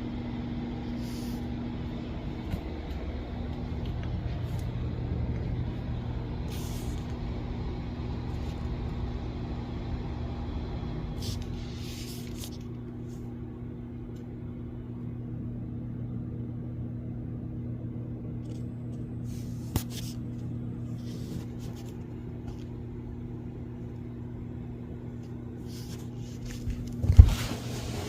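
A steady low hum with a couple of clicks, and a sharp knock about 27 seconds in.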